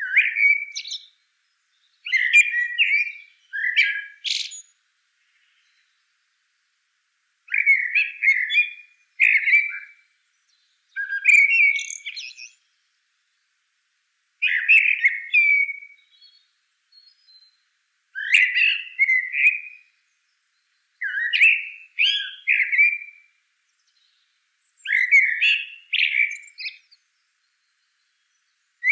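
Bird song: short chirping phrases, each about a second long, repeated every two to four seconds with silence between them.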